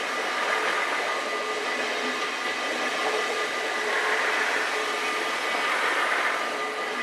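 NS DM '90 diesel multiple unit passing close by over a level crossing: a steady rushing roll of wheels on rail and underfloor diesel, swelling briefly about four to six seconds in. Thin steady high tones from the crossing's warning bell run through it.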